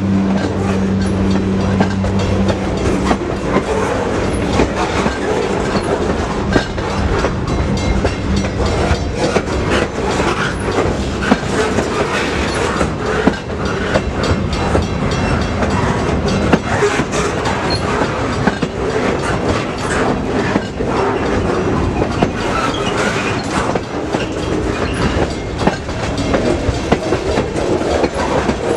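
Freight train rolling past, its car wheels clattering over the rail joints in a continuous run of clicks. A low steady hum fades out about eight seconds in.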